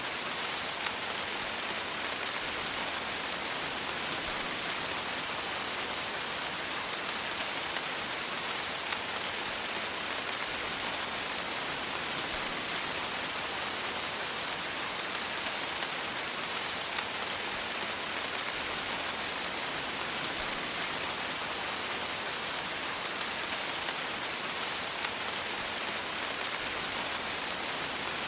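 Steady rain falling on a surface, a dense even hiss of many small drop impacts.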